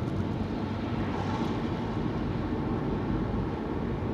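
Steady engine and tyre noise of a car being driven, heard from inside the cabin.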